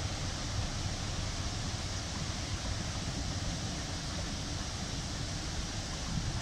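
Steady rumble of a heritage train of coaches rolling past and away on the track, with wind on the microphone.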